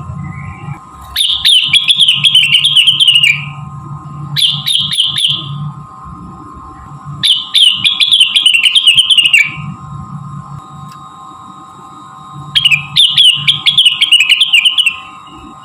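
Cucak rengganis songbird singing in four bursts of fast, chattering high song, each one to two seconds long, over a steady low hum and a faint steady tone.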